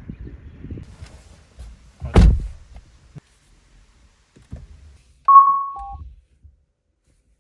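A car door shuts with a single heavy thunk, then about three seconds later a short electronic chime sounds: a higher tone followed by a brief lower one.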